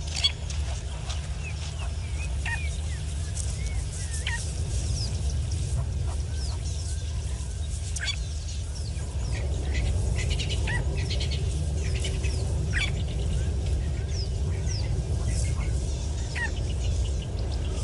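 Several birds chirping and calling at short intervals over a steady low rumble.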